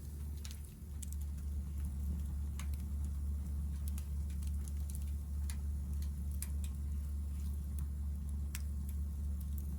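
Hardwood firewood burning, crackling with scattered sharp pops at irregular intervals over a steady low rumble.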